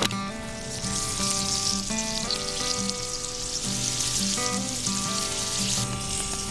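Steak sizzling in a small frying pan over a campfire, a dense hiss that fades out about six seconds in. Background music plays throughout.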